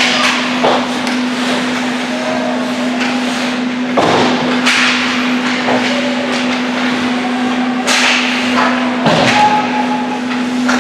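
Youth ice hockey play: hockey sticks and puck knocking against the ice and boards, a sharp hit about the start, another around four seconds in and another around eight seconds in, with scraping between. A steady hum from the rink runs underneath.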